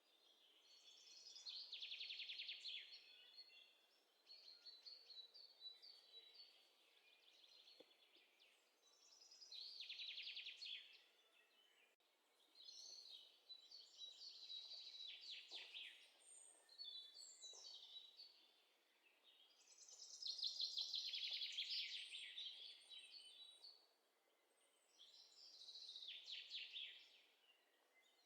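Faint bird song: a songbird repeats a short trilled phrase of rapid chirps, a second or two long, every few seconds.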